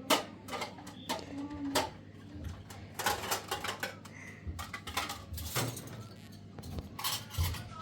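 Irregular sharp clicks and knocks, a few to several a second, like things being handled and set down, with brief faint voices in the background.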